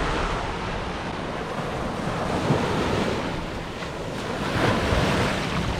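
Ocean surf washing onto a beach, with wind buffeting the microphone; the wash swells louder near the end.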